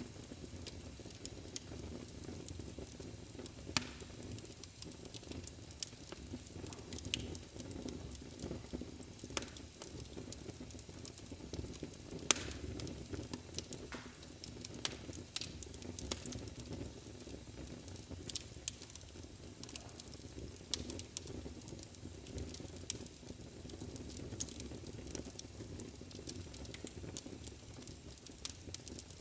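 Wood fire burning in a fireplace: a steady low rumble of flames with irregular crackles and occasional louder sharp pops.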